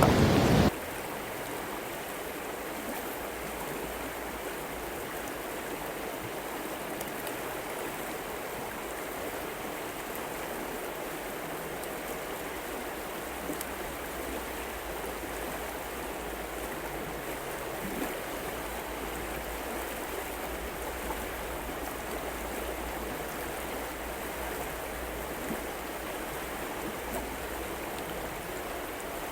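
Steady rush of a flowing river. A louder rush cuts off abruptly within the first second, and a few faint clicks sit over the water sound.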